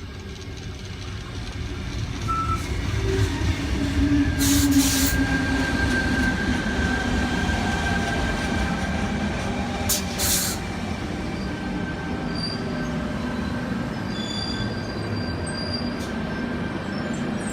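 Sydney Trains Tangara electric multiple unit pulling into the platform and slowing to a stop, its motors humming steadily. There are two short hissing bursts, about four and ten seconds in.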